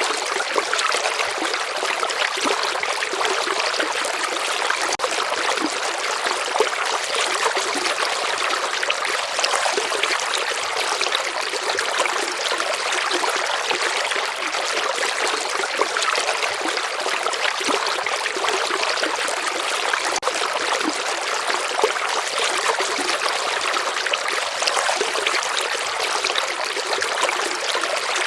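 Shallow stream flowing steadily, a continuous trickling, babbling rush of water with fine splashy texture and little low rumble.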